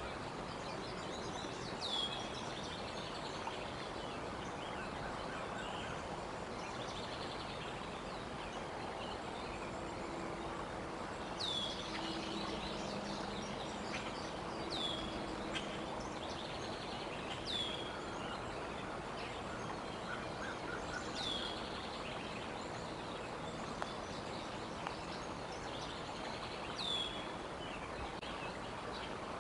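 A bird gives a short, high, down-slurred call six times at uneven gaps, over steady outdoor background noise.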